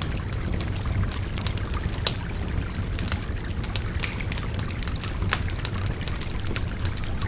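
Wood fire crackling with frequent irregular sharp pops, the loudest about two seconds in, over the steady babble of a river.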